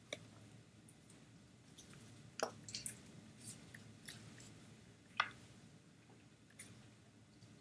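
Faint, irregular small clicks and taps, about half a dozen spread over several seconds, over a low room hum.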